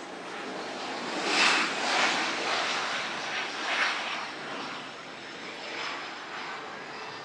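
Aircraft passing, a noisy roar that swells about a second in and fades toward the end.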